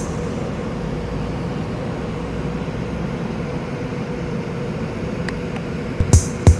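Steady whirring of a running refrigeration unit, with a faint constant hum. Drum-machine beats come in near the end.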